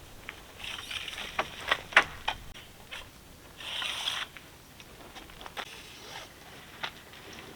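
Footsteps crunching through dry leaves and brush, with scattered sharp clicks and short rustling bursts at an uneven pace.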